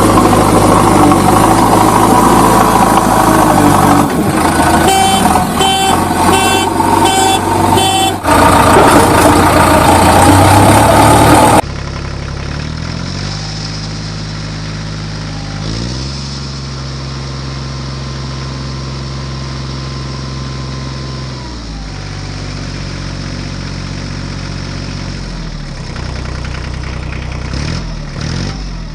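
A loud, dense sound with a run of quick repeated high notes cuts off abruptly after about eleven seconds. Then a diesel engine runs steadily, its pitch stepping up and down a few times as the revs change.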